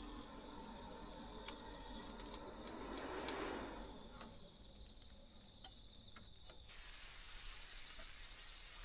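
Insect chirping in a steady high-pitched rhythm, about two to three chirps a second, over a faint hiss. A brief swell of noise comes about three seconds in, and the chirping cuts off abruptly near seven seconds.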